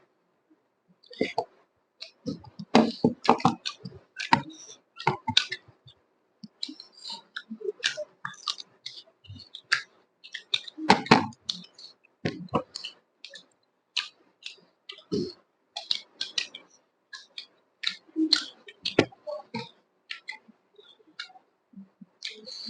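A person eating close to the microphone: irregular chewing with wet mouth clicks and smacks.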